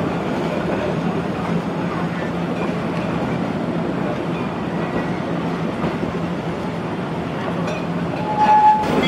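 Narrow-gauge passenger train rolling along the track, heard from aboard: a steady rumble of wheels on rail. A brief squeal comes near the end.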